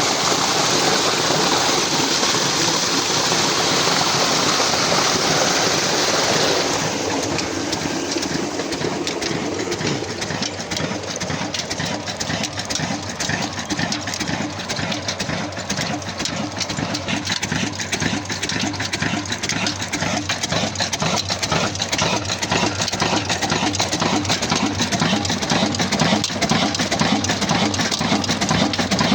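An old Ruston diesel engine runs steadily, driving a tube-well pump, with a fast, even chugging beat. For the first six seconds or so, a rush of pumped water is louder than the engine. After that the engine's beat takes over.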